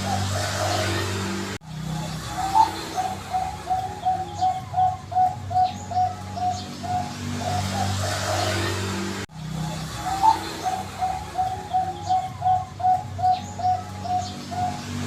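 Bangkok-bred zebra dove (perkutut) singing its song: a fast run of soft coos, about three a second, opening with one higher note and ending in a drawn-out trailing phrase, heard twice. A steady low hum runs underneath.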